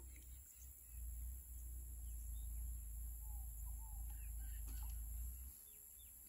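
Faint scattered bird chirps over a low rumble that stops about five and a half seconds in.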